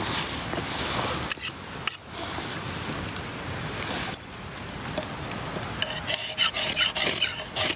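Steady rasping and scraping for about six seconds, then a quick run of sharp metallic clinks and taps near the end.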